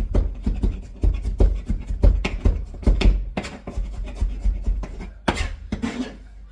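Knife chopping on a cutting board: quick, uneven strokes, several a second, each a sharp knock on the board.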